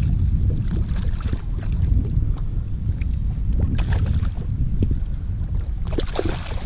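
Wind buffeting the microphone in a steady low rumble, over scattered small knocks and clicks from the kayak and tackle while a hooked fish is fought. A brief louder scuffle comes about six seconds in.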